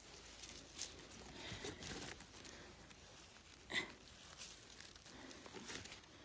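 Faint rustling and small snaps of leaf litter and twigs as wild hazel mushrooms are picked by hand, with one short, sharper sound about four seconds in.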